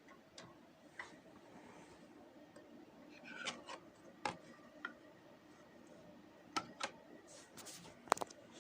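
Vinyl LP surface noise in the silent groove between tracks: a faint steady hiss and hum with scattered clicks and pops, a cluster of louder pops near the end.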